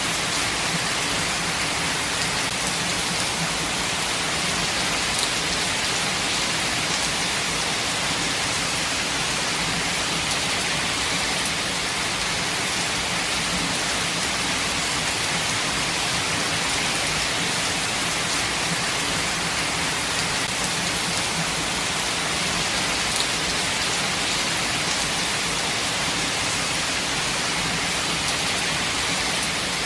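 Steady rain falling and pattering on leaves and the ground, an even hiss with a few sharper drop ticks here and there.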